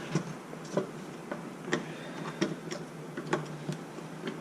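Irregular light clicks and taps of hard plastic and metal parts as a stuck part is wiggled and pried at inside an RC truck's chassis, about a dozen clicks at uneven intervals.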